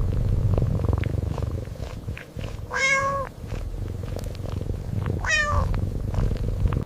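A domestic cat purring steadily, with two short meows, about three seconds in and again about five and a half seconds in.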